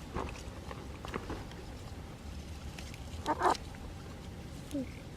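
Two short animal calls close together about three and a half seconds in, and a short falling call near the end, with a few faint clicks before them.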